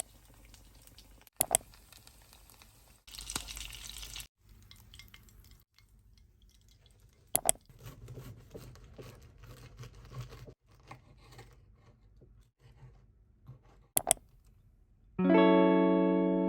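Faint background with a few sharp clicks and a short hiss, then a guitar chord rings out loudly near the end and slowly dies away.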